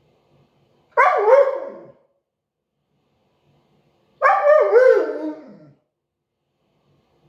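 Siberian husky 'talking': two drawn-out, wavering vocal calls, the first about a second in and the second about four seconds in and a little longer, each sliding down in pitch as it ends.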